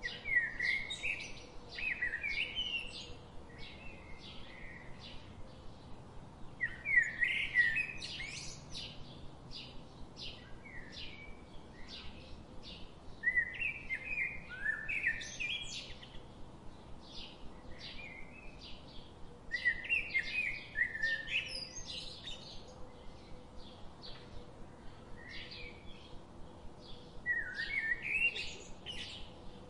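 Birds singing: a quick, chirping song phrase with fast up-and-down glides, repeated about every six to seven seconds, with short chirps in between.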